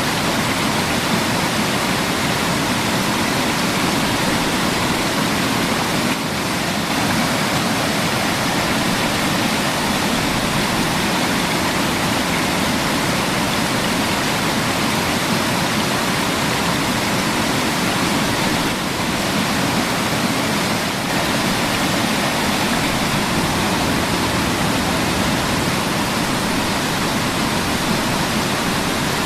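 Waterfall rushing steadily, water crashing down.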